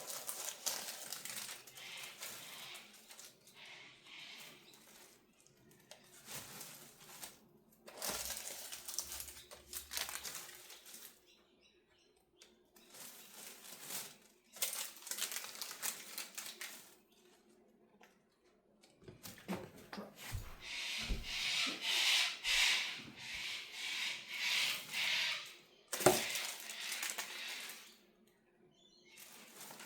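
Baking paper rustling and crinkling in bursts as it is handled and laid between pieces of bread, with a sharp knock near the end.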